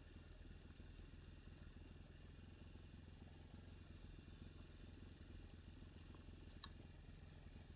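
Off-road motorcycle engine running quietly at a low, steady idle. A brief faint high chirp comes near the end.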